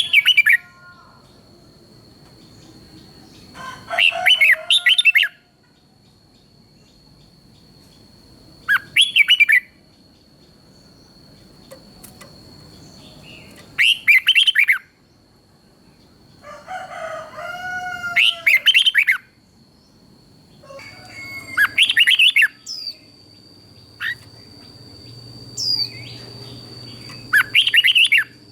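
Red-whiskered bulbul singing: seven short, loud, whistled song phrases, one every four to five seconds. A steady high thin tone runs underneath throughout.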